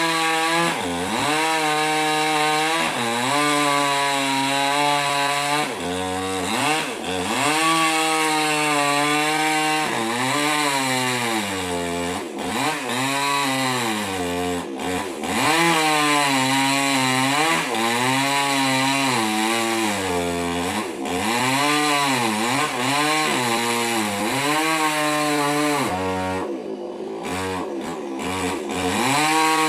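Small petrol mini chainsaw running at high revs while cutting wood, its engine note dipping and climbing back again and again as the chain bites and frees.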